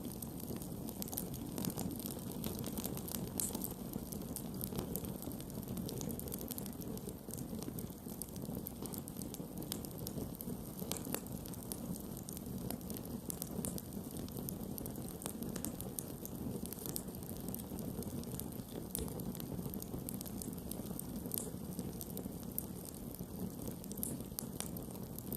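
Campfire burning: a steady low rush from the flames with many small, sharp crackles and pops.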